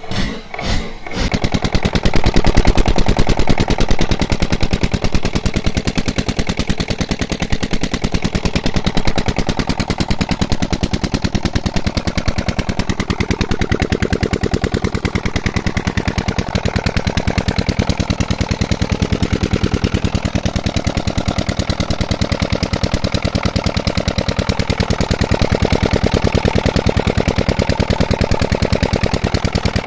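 Old diesel engine driving a tubewell water pump: slow, separate firing beats give way about a second in to a fast, even, steady running beat as the engine picks up speed and runs smoothly.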